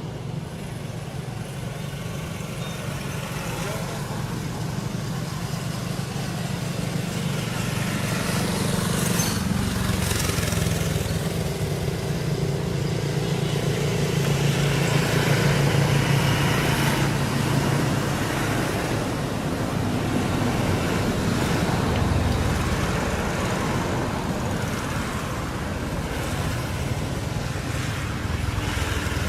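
Steady rumble of motor vehicle engines and road traffic.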